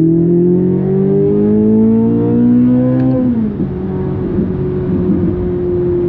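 C8 Corvette Z06's flat-plane-crank V8 under acceleration: the exhaust note climbs steadily for about three seconds, drops sharply with an upshift, then holds a steady lower note.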